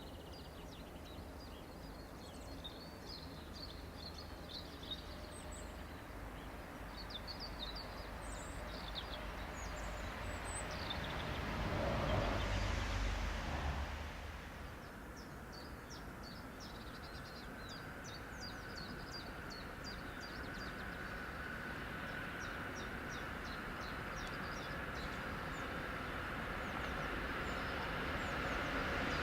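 Birds chirping over quiet riverside background noise; about twelve seconds in a passing noise swells and fades, then an approaching train grows steadily louder toward the end, with a faint steady whine rising out of the rumble.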